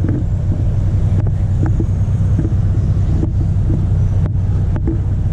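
Wind buffeting the camera microphone: a steady low rumble with a few light clicks.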